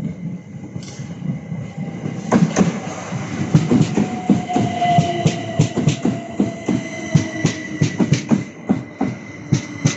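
Train passing through a station, its wheels clattering over rail joints and points in a fast, irregular clickety-clack that starts about two seconds in, with a faint falling whine through the middle.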